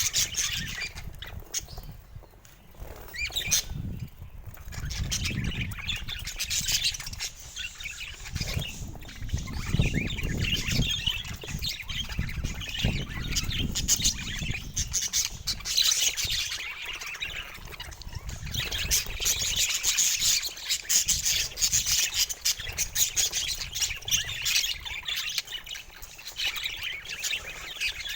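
Budgerigars chattering, with busy warbling and squawks running on without a break. A low rumble sits underneath for several seconds in the middle.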